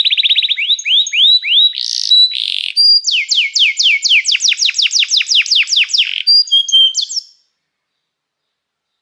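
Canary singing a fast trilled song: runs of quick, downward-sweeping notes repeated at different speeds, broken by short chirps. It cuts off suddenly about seven seconds in.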